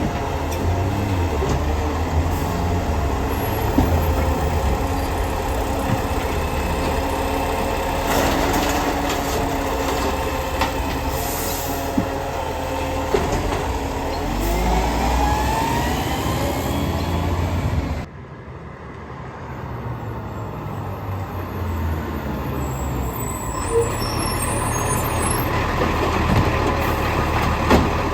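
Garbage truck running, with hissing air brakes. The sound cuts off suddenly about two-thirds of the way through, then a truck engine builds up again.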